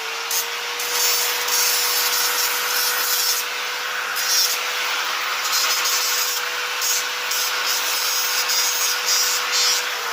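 Electric angle grinder running at a steady speed against sheet steel, trimming a patch panel: a single-pitched motor whine under gritty scraping that comes and goes, winding down at the very end.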